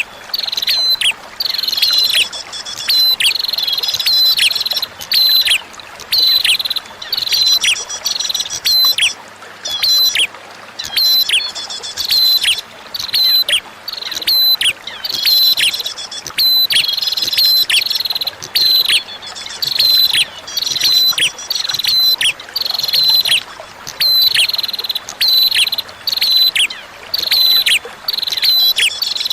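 Prinia (prenjak) song: short, sharp, high chirping phrases repeated about once a second, each with quick downward-sliding notes. Beneath the song runs a faint steady hiss of flowing water.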